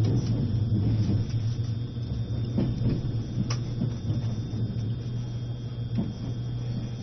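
Steady low rumble of an E653 series electric train heard from inside the passenger cabin while it runs, with a few faint short knocks and a constant thin high tone.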